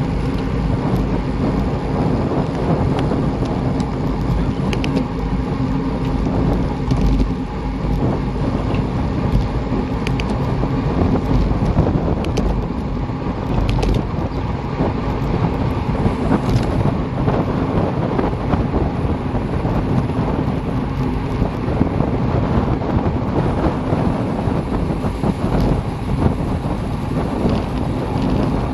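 Steady rush of wind over the microphone, mixed with the road rumble and low hum of moving along a road, with a few faint ticks.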